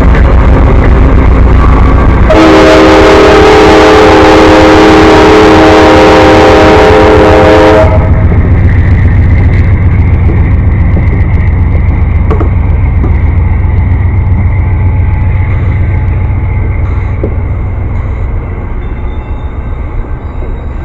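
Amtrak diesel locomotive running loud and close, sounding one long multi-tone air-horn blast of about five and a half seconds starting about two seconds in. Afterwards the rumble of the locomotive and cars slowly fades.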